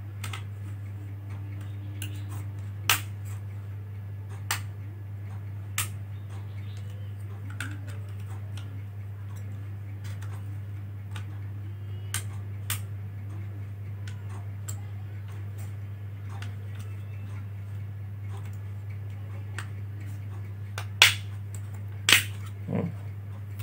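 Scattered small clicks and taps from hands handling small laptop parts, such as a plastic DVD bezel and a drive caddy, with a few sharper clicks near the end. A steady low hum runs underneath.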